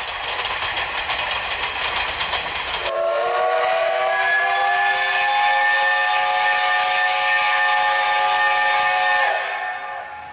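Steam train running with a noisy rumble and rail clatter. About three seconds in, the C12 66 steam locomotive's whistle blows one long chord-like blast of about six seconds, rising a little in pitch as it opens and sagging as it cuts off.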